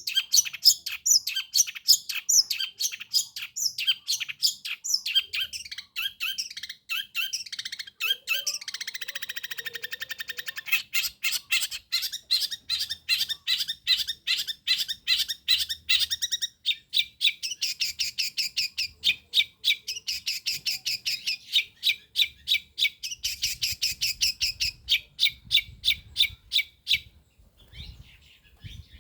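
Long-tailed shrike (pentet) singing its 'tembakan': long runs of sharp, rapid repeated notes, broken by a buzzy trill about a third of the way in, with the song stopping shortly before the end.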